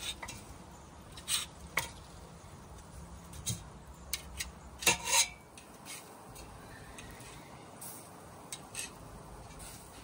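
Irregular metal clinks and scrapes from skewers and grill utensils being handled, with a few sharper knocks, the loudest about five seconds in.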